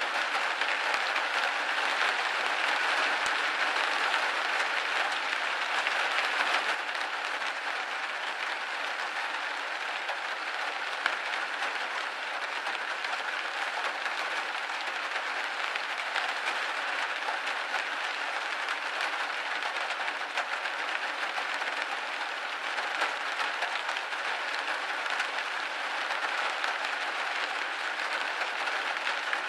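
Steady rain hitting a window pane: a dense, even hiss of many small drops that eases slightly about seven seconds in.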